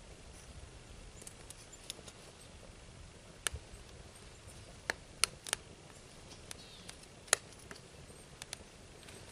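Swedish torch fire crackling, dry wood burning with irregular sharp pops, several close together around the middle, over a faint steady hiss.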